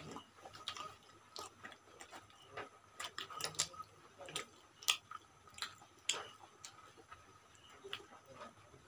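Close-up wet mouth sounds of people eating roti with chicken curry: irregular sharp smacks and clicks of chewing and lip-smacking, a few a second.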